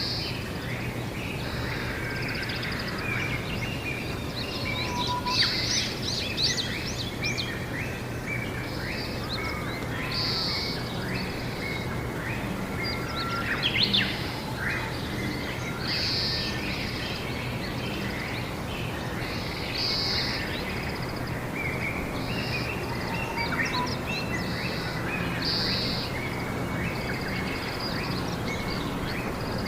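Several wild birds chirping and calling: a steady run of short chirps and trills, with a louder brief call every few seconds, over a steady low hum.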